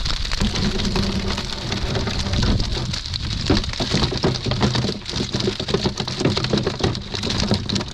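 Water spattering and splashing: a dense, steady patter of many drops.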